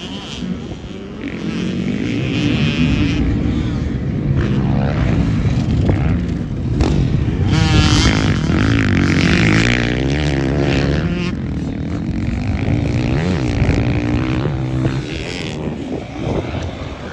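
Two-stroke Honda CR250 motocross bike engine being ridden, revving up and down as it accelerates and backs off, with the loudest burst of revs about halfway through.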